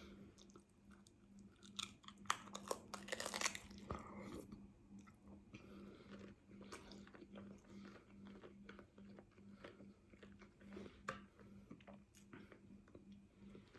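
Close-up chewing and biting of a crunchy hard-shell taco, with a run of loud crunches about two to four seconds in and softer crackly chewing after. A faint steady hum sits underneath.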